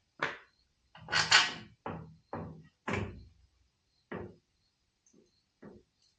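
A string of about eight knocks and clunks of hard objects being handled at a metal tool box, the loudest a double clunk about a second in.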